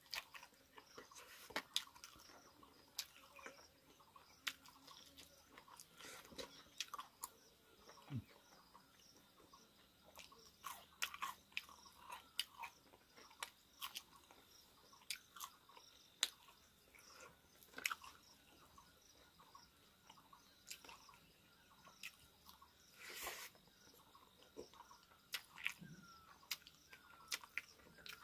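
Faint chewing of a meal eaten by hand, with irregular small clicks and mouth sounds throughout.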